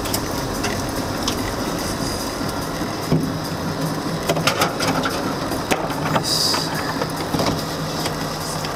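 A car creeping along a rough, overgrown dirt track: steady engine hum under the crunch of tyres over debris, with scattered knocks and clicks and a brief scrape about six and a half seconds in.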